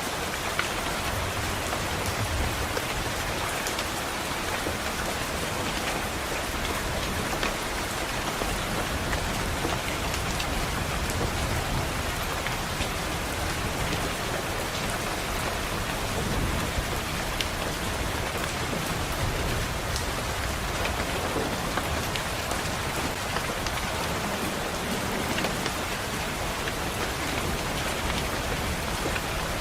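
Steady rain on window glass, an even hiss sprinkled with many small sharp drop ticks, over a low rumble of distant thunder that swells and fades.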